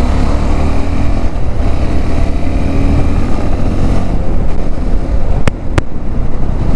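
Wind noise buffeting a helmet-mounted external mic on a moving motorcycle, loud and steady, mixed with engine and road noise, recorded with GoPro wind reduction switched off. Two sharp clicks come about five and a half seconds in.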